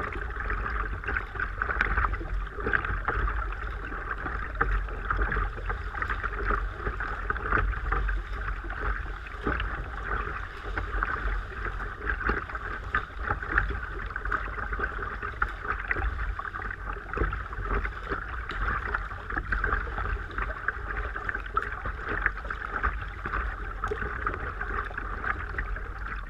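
Sea water sloshing and splashing around a kayak as it is paddled through a sea cave: a continuous crackling wash of small splashes over a steady low rumble.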